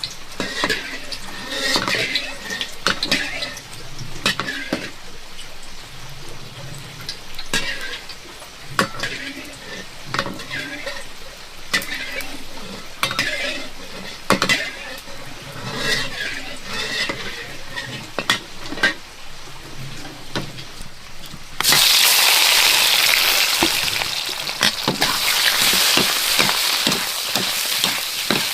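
Cooking in a pan: scattered taps and clinks of a utensil against the pan, then about 22 seconds in a loud sizzle starts suddenly as food goes into hot oil and keeps frying, with the utensil stirring.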